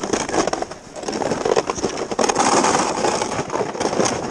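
Skis sliding and scraping over snow in a continuous rush, with many small irregular scrapes.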